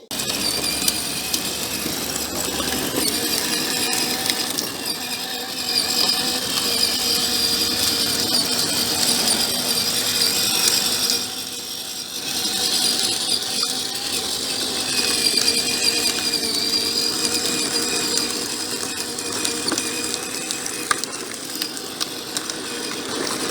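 Children's electric motorcycle's motor and gearbox running with a steady whine and gear grinding as it is ridden, its pitch wavering with speed and easing off briefly about halfway.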